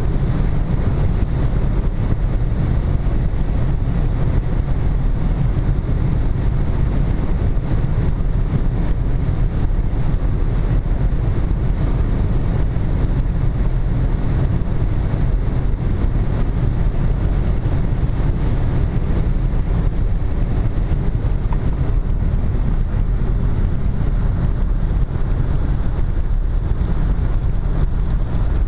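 VW Golf 1.0 TSI three-cylinder turbo petrol engine running at a steady high speed, with a constant low drone mixed with wind and road noise and no change in pitch.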